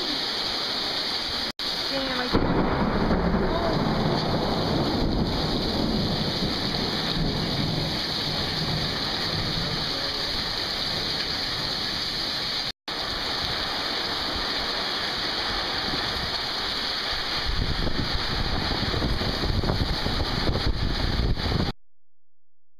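Heavy rain pouring down in a thunderstorm, a steady hiss with low rumbling that swells again near the end. The sound drops out for an instant twice and stops abruptly a second before the end.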